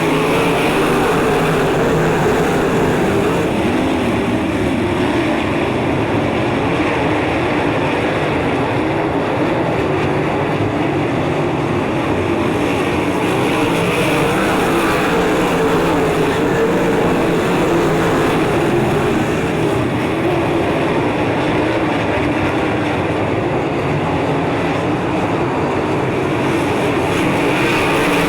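A field of 360 sprint cars racing at full throttle, their V8 engines blending into one loud, steady drone that wavers slightly in pitch as the cars pass.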